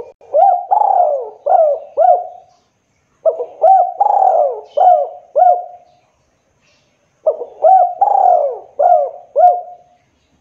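Spotted dove (tekukur) cooing: three phrases of about five coos each, with a short pause between phrases.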